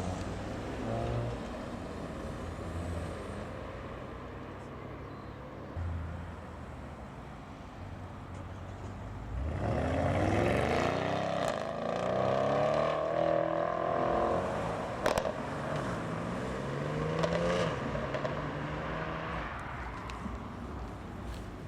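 Audi cars' engines as the cars drive past and pull away. About halfway through, one car accelerates, louder and rising in pitch, then eases off, with a single sharp click a few seconds later.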